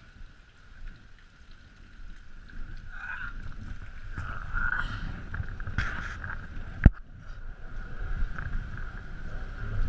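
Canyon Strive mountain bike rolling down a wet trail: rumbling tyre and wind noise on the onboard camera, with a steady high buzz. One sharp knock comes about two-thirds of the way through.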